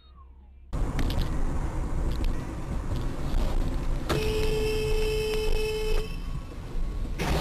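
Car horn held for about two seconds in the middle, over steady road and engine noise picked up by a dash cam.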